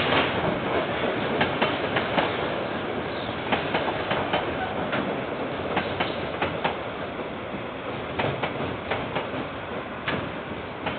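KiwiRail train rolling past, its wheels clacking irregularly over the rail joints above a steady rumble, slowly getting quieter. Heard through a security camera's microphone.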